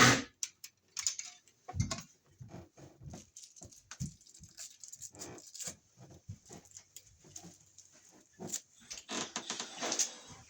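Irregular clicks, snaps and scrapes of a hand tool working a plastic wiremold box as a knockout notch is broken out for the raceway, with a sharp snap at the very start and a denser run of scraping near the end.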